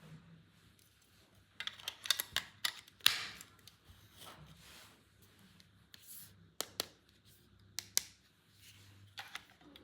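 Plastic toy packaging and parts being handled: scattered sharp clicks and snaps, several in quick clusters, with soft rustling between.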